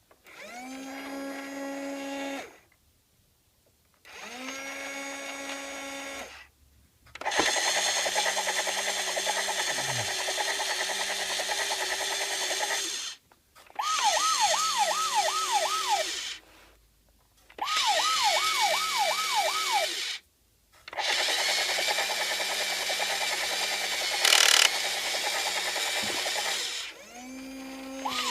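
Toy rescue helicopter running its effects: a whirring rotor sound that spins up and cuts off in several bursts, the longer ones lasting five or six seconds, and twice in the middle a fast warbling electronic siren.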